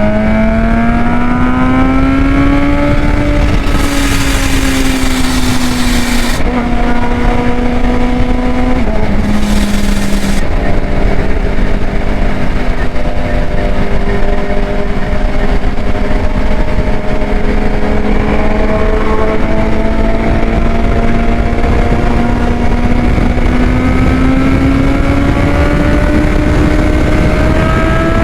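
Vehicle engine running steadily under way, its pitch slowly rising and falling with a small drop about nine seconds in, over a constant low rush of wind and road noise.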